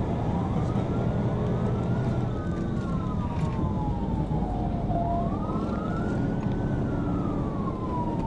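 Police cruiser siren in wail mode: slow rising and falling sweeps, each rise and fall taking a few seconds, over the steady rumble of the car's engine and road noise.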